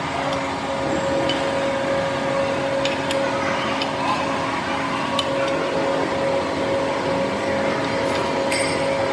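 A machine running steadily with a constant hum, with a few light metallic clinks.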